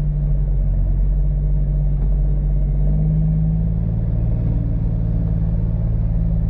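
Caterpillar C13 diesel engine of a dump truck pulling slowly in low gear, a steady low rumble whose note shifts about three seconds in.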